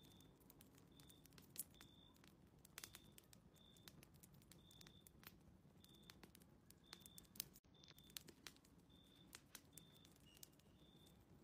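Faint fireplace wood fire crackling, with irregular sharp snaps, under a run of short high-pitched chirps repeating about once or twice a second.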